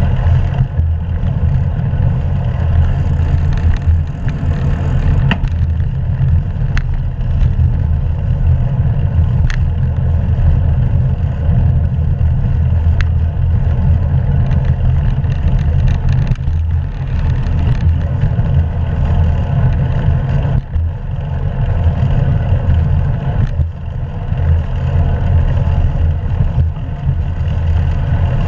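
Loud, steady wind rumble on a bike-mounted action camera's microphone while riding, with a few sharp ticks from the bike now and then.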